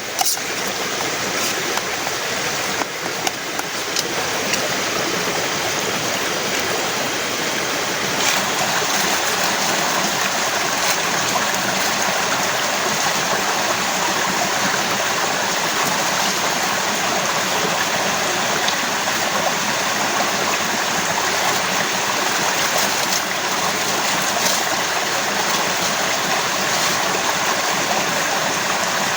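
Heavy rain falling steadily, a dense unbroken hiss of rain with a few faint drip ticks, growing slightly louder in the first several seconds.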